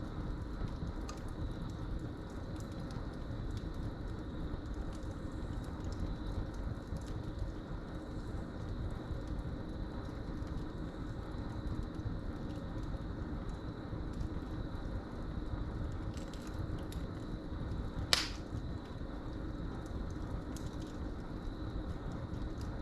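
Wood fire crackling in a fireplace, with scattered small snaps and one loud pop about eighteen seconds in. Crickets chirp as a steady high trill behind it.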